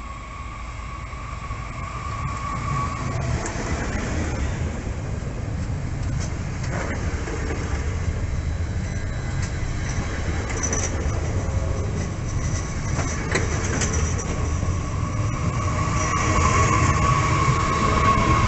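TER Hauts-de-France regional multiple unit running in past the platform, its rumble growing louder as it draws near and passes. A few sharp clicks from the wheels, and a steady whine near the start and again near the end.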